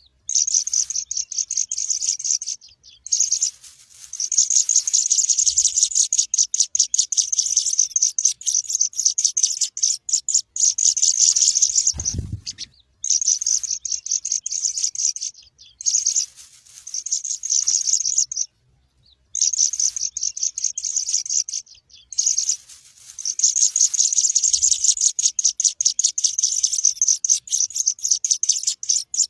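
Baby burung pipit (small finch-like birds) chirping rapidly and high-pitched in long continuous runs, with several short pauses; a brief low thump about twelve seconds in.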